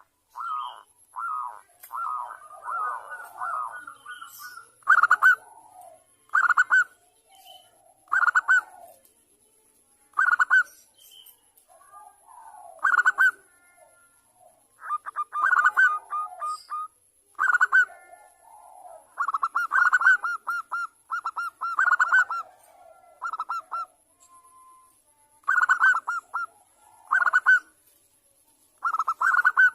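Zebra dove (perkutut) cooing: short runs of quick, stuttering coo notes, one every second or two, with a faster run of notes in the first few seconds.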